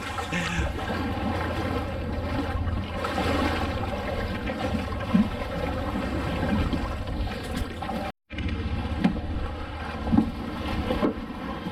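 Tour boat's engine running steadily under way, with a brief dropout about eight seconds in.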